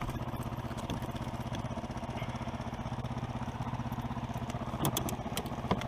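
Small engine idling steadily with an even, rapid putter. A few sharp clicks sound near the end.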